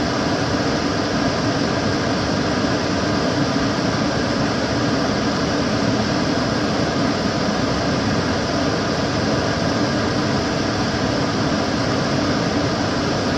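Kitchen cooker hood extractor fan running steadily: an even rush of air with a stronger low hum underneath, unchanging throughout.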